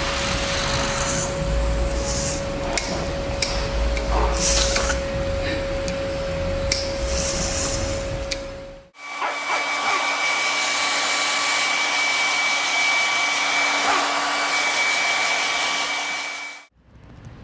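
Electric pet grooming dryer blowing steadily: a motor whine over rushing air. It is heard in two stretches, with a different pitch after an abrupt change about halfway through.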